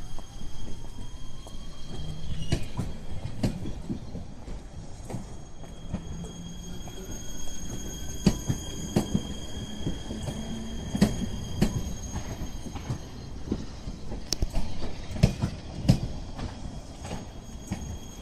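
Electric passenger train moving along the station track: wheels knock sharply and irregularly over the rail joints over a low rumble, with a steady high-pitched whine.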